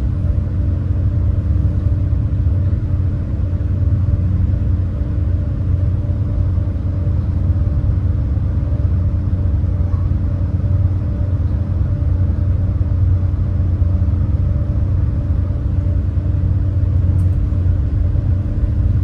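The engines of the Super Jet Miyajima high-speed passenger boat running slowly as it holds position, waiting its turn at a one-way channel: a steady low drone with a hum of several steady tones.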